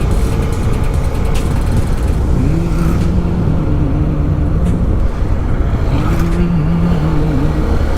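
Motorcycle riding along a road: a steady engine and wind rumble, with a low steady hum that comes in twice, for about two seconds each time.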